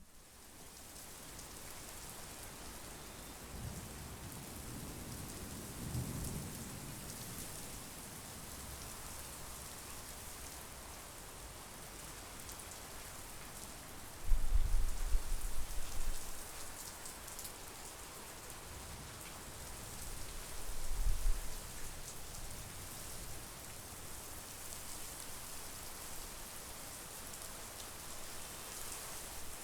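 Steady monsoon rain falling in a continuous hiss, with deep low rumbles rising through it: a faint one early on, a loud one about halfway through and a smaller one about two-thirds of the way in.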